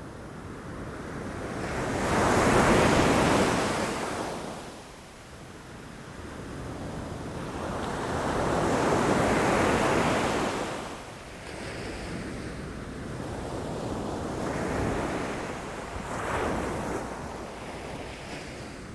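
Ocean waves breaking against rocks in slow swells, each one rising to a rush of surf and draining away; two larger waves break in the first half, then smaller ones follow.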